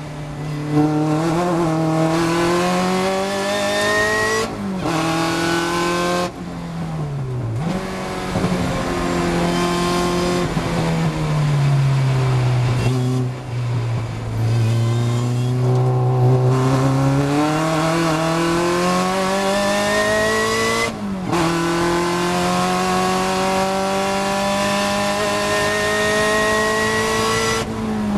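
Supercharged Opel Speedster four-cylinder engine at full race pace, heard from inside the car. It pulls up through the revs again and again, with short breaks at gear changes and when the driver lifts off. It drops to low revs through a slow corner in the middle, then climbs hard through the gears in a long acceleration near the end.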